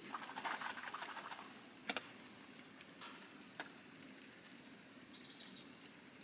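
A small bird gives a quick run of about six short, high chirps a little past the middle. Faint clicks and knocks of cookware being handled come in the first few seconds.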